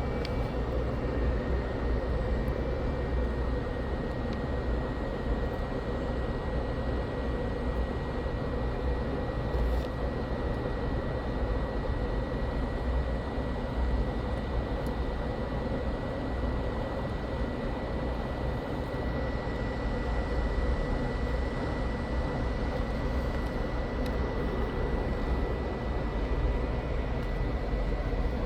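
Hot air rework station blowing steadily on a laptop motherboard to desolder the USB-C charging port: an even rush of air with a thin, steady high whine over it.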